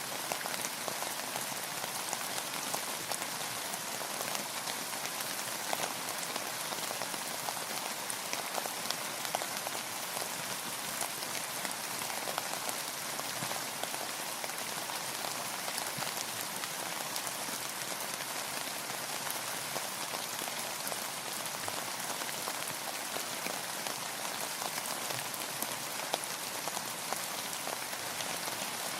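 Steady rain falling, a constant hiss of many small drops hitting a surface, with no change in intensity.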